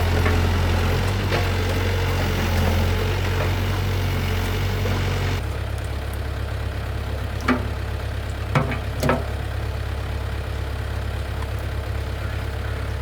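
Truck engine idling steadily. About five seconds in the sound changes abruptly, and a couple of seconds later come three short, sharp knocks.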